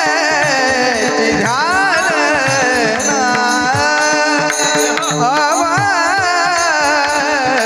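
Marathi devotional kirtan singing: a solo voice in long, ornamented melodic lines that glide up and down, over a steady held drone and a running hand-drum beat.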